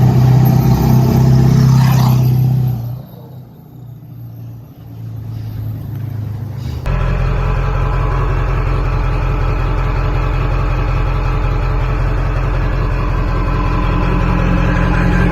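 Ford 7.3 L Powerstroke turbo-diesel V8 running loud through a straight boom-tube exhaust, falling away about three seconds in. After a sudden jump a few seconds later, it idles steadily.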